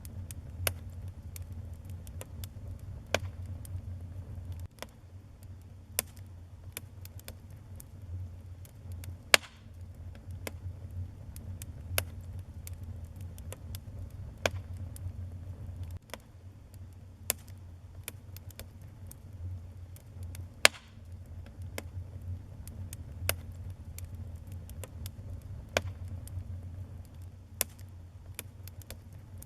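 Wood fire burning in a fireplace: irregular sharp crackles and pops, a few notably loud snaps, over a steady low rumble of the flames.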